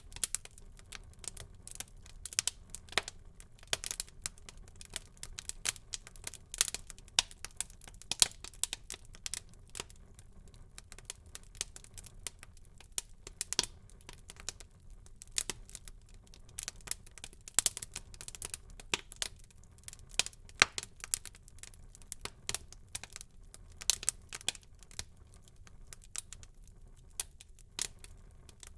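Wood fire burning in a fireplace: irregular sharp crackles and pops, some loud, over a low, steady rumble of the flames.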